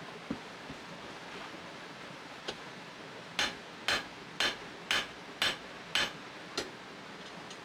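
Small hand hammer striking a hot spring-steel dagger blade during forging: a light tap, then seven sharp blows at about two a second, over a steady rushing background.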